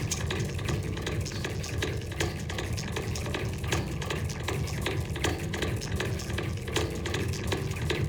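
Twisted goa trance track playing a noisy, crackling passage: a dense stream of rapid clicks over a steady low throb.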